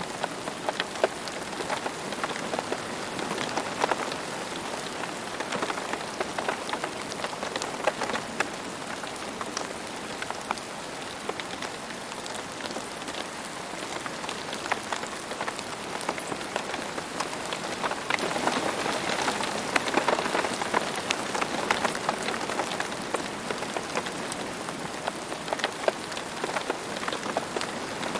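Steady rain falling, with many individual drops landing as sharp separate ticks over an even hiss. It swells slightly heavier about two-thirds of the way through.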